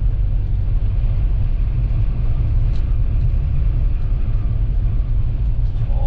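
Toyota Land Cruiser driving through a blizzard: a steady, heavy low rumble of road and wind noise.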